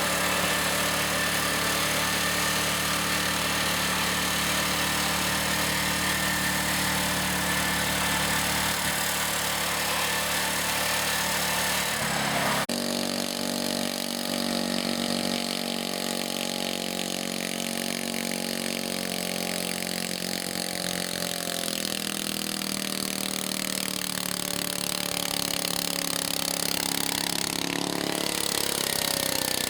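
Garden tractor engines running steadily. About twelve seconds in the sound switches abruptly to a different engine, whose speed drops a little past the middle and picks up again near the end.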